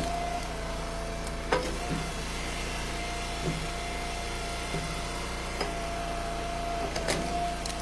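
Engine of a hydraulic log splitter running steadily, with sharp knocks and cracks as ash rounds split and the pieces fall. The loudest knocks come about a second and a half in and again near the end.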